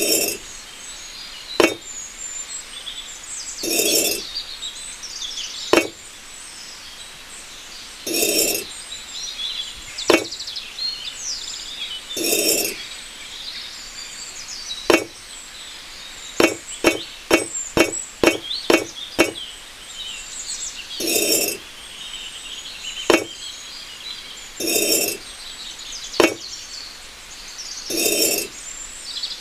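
Hand tools working small bricks and mortar: sharp clinking taps, one quick run of about eight taps, and short scraping strokes about every four seconds.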